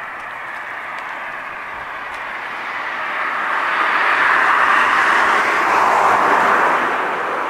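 A passing vehicle's noise, rising to a peak a little past the middle and then fading away.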